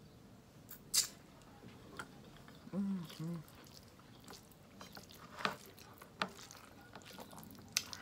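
Close mouth sounds of eating chicken by hand: scattered wet smacks and clicks while chewing. About three seconds in there is a short two-part hum.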